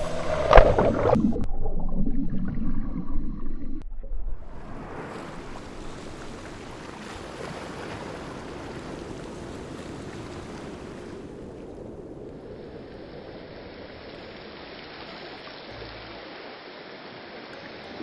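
Outdoor water and wind noise: a loud, busy stretch with a sharp knock just under a second in, then a steady rushing of wind and water for the rest.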